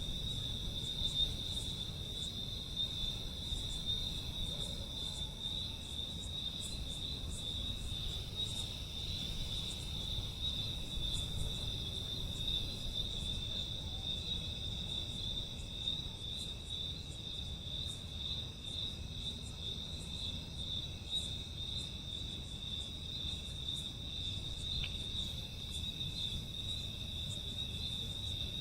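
A steady, unbroken high-pitched trill of crickets, with faint short high chirps flickering over it and a low rumble underneath.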